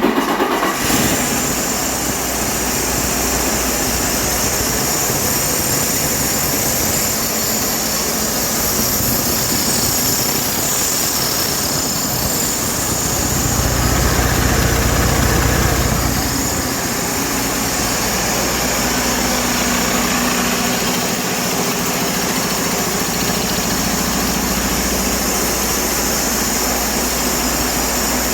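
Detroit Diesel DD13 inline-six diesel engine, just started, settling into a steady idle. Its level rises briefly about halfway through, then drops back.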